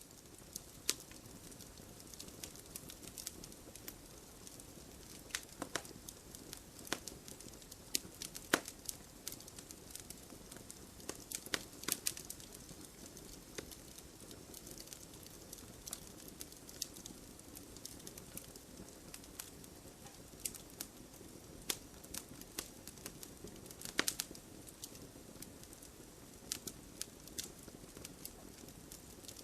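Wood fire burning in a fireplace: logs crackling with irregular sharp pops over a steady low hiss of the flames, a few pops standing out louder.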